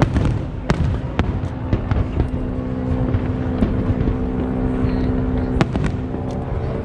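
Aerial fireworks going off: a continuous rumble of booms with scattered sharp cracks, over a steady low droning tone through the middle.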